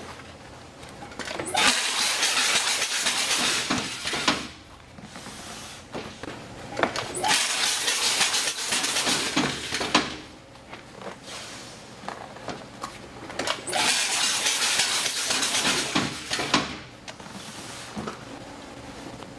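MPT-21 banding machine running three banding cycles on snack trays, each about three seconds of loud hissing with sharp clicks, coming about six seconds apart.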